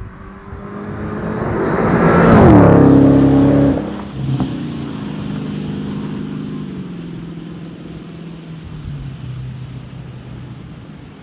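Dodge Challenger SRT Hellcat's supercharged 6.2-litre Hemi V8 driving past: the exhaust note swells to a loud peak and drops in pitch as the car passes, cuts back sharply a second later, then fades slowly as the car moves away.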